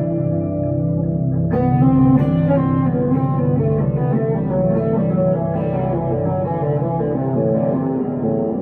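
Electric guitar, a 1962 Gibson Les Paul Custom played through a Two-Rock Emerald Pro amp with delay and reverb pedals, with held notes ringing out and new notes struck about one and a half seconds in.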